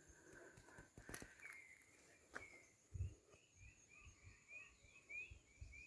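Faint outdoor bird calls: a run of short repeated chirps, about two or three a second, through the second half, with a few soft low thuds like footsteps on steps.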